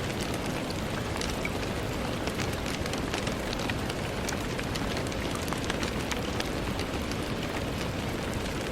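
Steady rain on a window: a continuous hiss with many small, separate drop ticks scattered through it.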